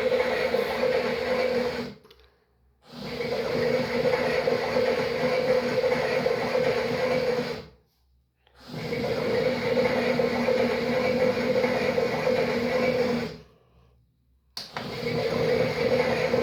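Small electric motor of a toy washing machine running its drum in stretches of about five seconds. It cuts out three times for under a second and starts again each time.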